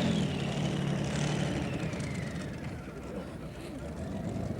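Engine of a tractor-pulling machine running down, with a high whine falling steadily in pitch over the first few seconds as the sound fades, then settling to a lower, steadier engine sound.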